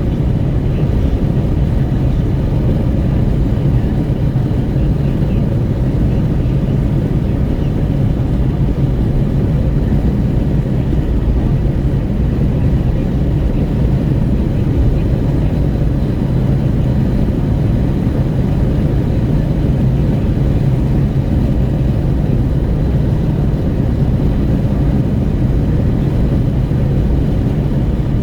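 Renault Kwid 1.0 at highway speed with a window open: steady wind rushing and buffeting at the window over tyre and road noise.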